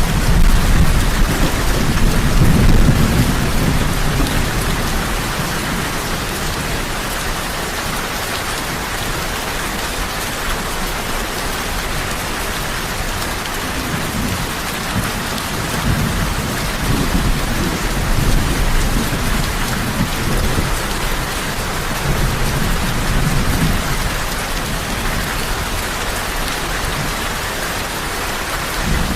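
Heavy rain falling in a steady hiss, with low rolling thunder rumbling under it several times: early on, around the middle and again later. A louder rumble of thunder begins right at the end.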